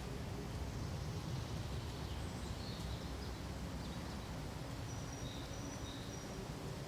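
Forest ambience: a steady low hush of background noise, with a few faint, high, short bird chirps and thin whistles from about two seconds in.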